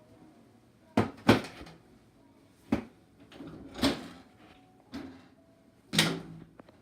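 A series of sharp knocks and clatters, about six in all at irregular intervals, like a cupboard door or panel being handled and shut.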